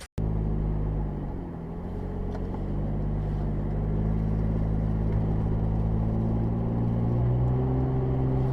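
Car engine running with road noise. Its hum steadies after a small dip and climbs slowly in pitch over the last few seconds as the car speeds up.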